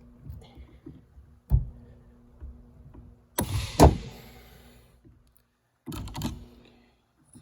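A sharp knock, then a loud rattling clatter with a scraping tail about three seconds in, and another clatter about six seconds in: shifter parts and tools being handled while fitting a short shifter. A faint steady hum runs underneath.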